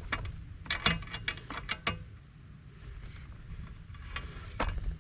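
Irregular sharp clicks and snaps: a quick cluster in the first two seconds and one more near the end, over a steady low rumble.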